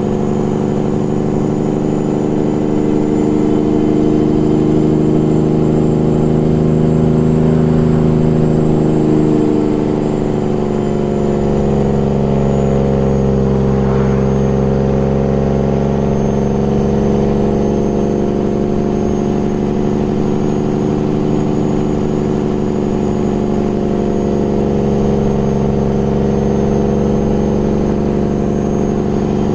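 Peterbilt 389 glider's diesel engine held back by its engine (Jake) brake on a long downhill grade, a steady loud drone. Its pitch sinks about ten seconds in and climbs back a few seconds later as engine speed changes.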